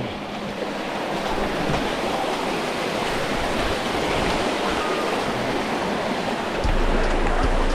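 Rushing water, a steady even hiss, in a slot-canyon stream. A low rumble joins near the end.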